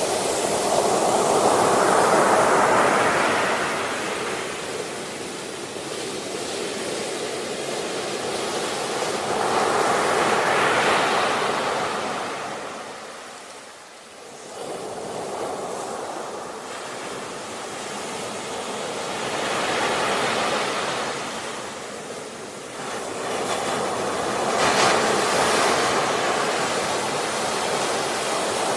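Ocean surf: waves breaking and washing in, swelling and fading in slow surges several seconds apart, four in all, with a short lull about halfway through.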